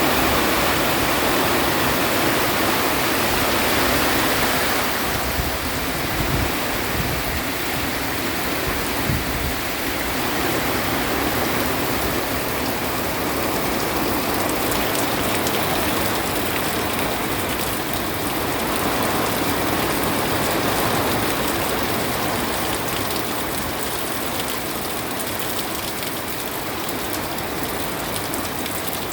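Heavy hurricane rain, a dense steady rushing noise, a little louder in the first few seconds.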